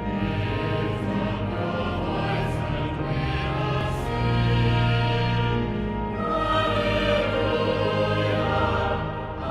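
Choral music: voices singing sustained notes with instrumental accompaniment.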